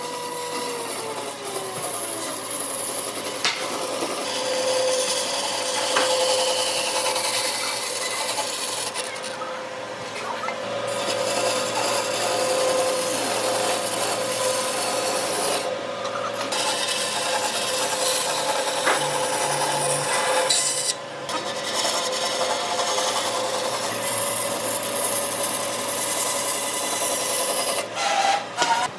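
A handheld power tool abrading wood: a steady motor tone under a dense rasping scrape. It is broken by a few short pauses, and a motor winds down in pitch about a second in.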